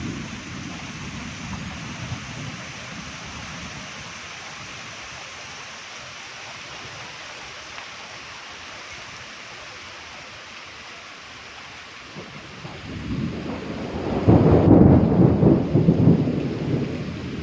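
Steady heavy rain hissing, with a long rumble of thunder that swells about twelve seconds in, grows loudest a couple of seconds later, then rolls away.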